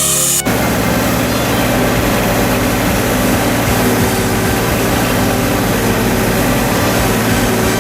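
An engine running steadily, starting abruptly about half a second in.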